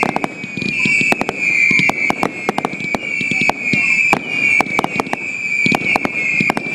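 Aerial fireworks going off in a rapid string of sharp bangs and crackles, over a steady high whistle.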